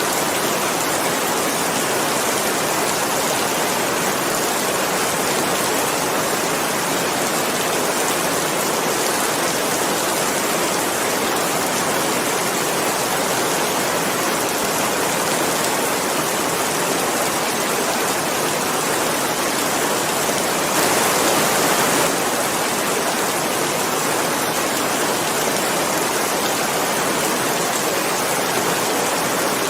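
Steady heavy rain, a dense even hiss, briefly a little louder for about a second two-thirds of the way through.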